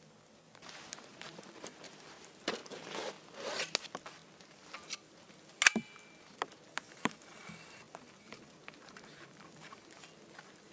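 Rustling handling noises with scattered sharp clicks and taps. The rustling is busiest in the first few seconds and there is a single louder knock about halfway through.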